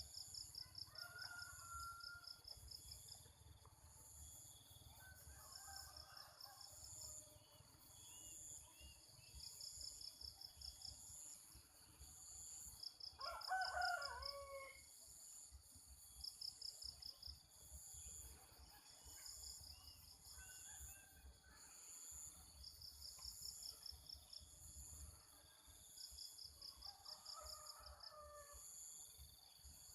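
Faint, distant roosters crowing several times, the loudest crow about midway. Between the crows an insect trills in short bursts of rapid, high pulses every few seconds, with small bird chirps behind.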